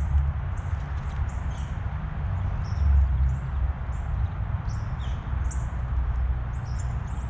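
Small songbirds at a feeder giving many short, high chirps in quick succession, over a continuous low rumble.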